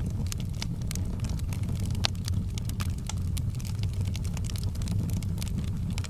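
Fireplace fire crackling, with many irregular sharp pops over a steady low rumble; one louder pop about two seconds in.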